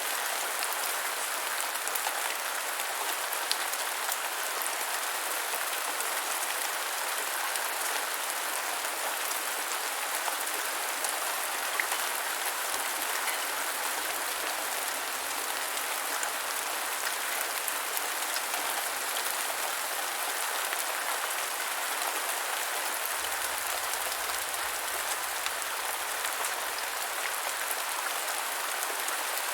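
Steady rain falling on the ground, an even hiss with many small drop ticks.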